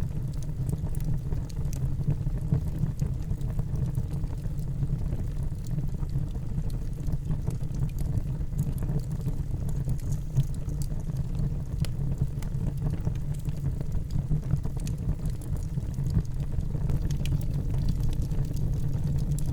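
Wood fire burning in a fireplace: a steady low rumble of the flames with faint, scattered crackles.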